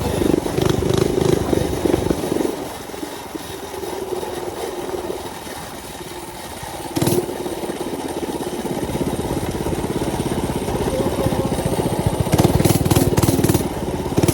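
Mini bike's small engine running under throttle. It eases off after about two seconds and runs quieter, there is a sharp knock about seven seconds in, then it picks up again and is loudest near the end.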